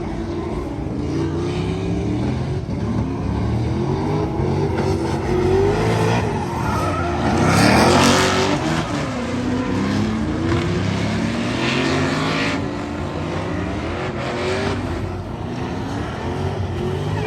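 Drift cars' engines revving up and down over and over as the cars slide, several at once, with tyres screeching; the loudest rush of tyre noise and revs comes about eight seconds in.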